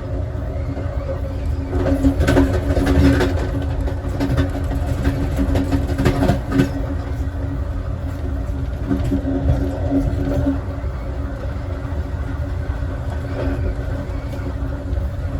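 Passenger train in motion, heard from its last car: a steady low rumble of wheels on rail with a held tone, and a few clusters of sharp clicks and rattles about two and six seconds in.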